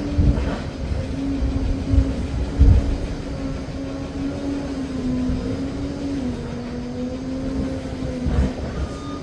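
Liebherr PR 746 crawler dozer working, its engine and drive giving a steady drone that wavers slightly in pitch, with heavy low knocks from the machine, mostly in the first three seconds and again about eight seconds in.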